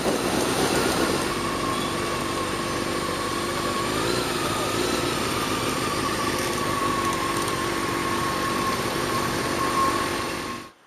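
Motorcycle engine running steadily at low speed, with a slight rise in pitch about four seconds in; the sound cuts off suddenly near the end.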